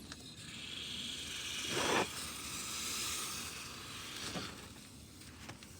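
Line-set flush being injected into an air-conditioner refrigerant line: a steady hiss of the pressurized flush, with a louder spurt about two seconds in, fading out near the end.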